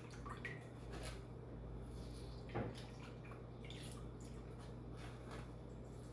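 Wet squelching and dripping as blended coconut pulp is squeezed by hand to strain out the coconut milk, with a louder splash about two and a half seconds in. A steady low hum runs underneath.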